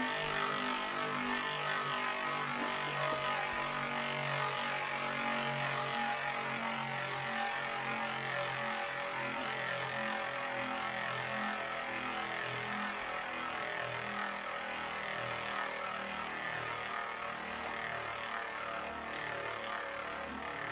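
Two Beyblade Metal Fusion spinning tops, Burn Fireblaze 105HF and Lightning L-Drago 100SD, spinning in a stadium with a steady whirring hiss that slowly gets quieter.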